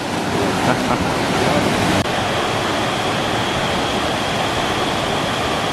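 Reach Falls' cascading water rushing loudly and steadily, with a slight rise in level about two seconds in.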